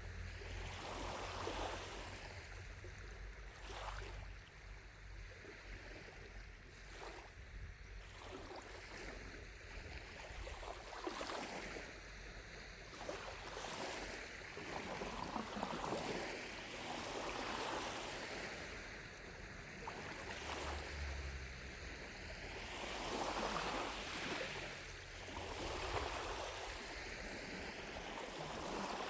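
Small lake waves lapping against the shore, swelling and fading every few seconds.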